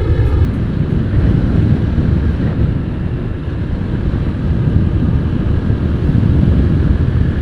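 Yamaha FZ-S V3's single-cylinder engine running at a steady riding pace, with wind rushing over the microphone.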